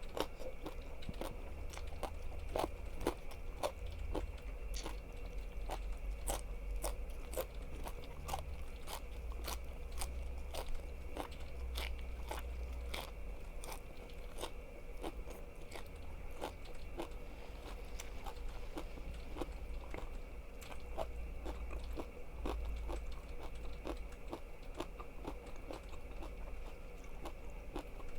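Close-miked biting and chewing of crunchy food, with crisp crunches coming about twice a second over a faint steady hum.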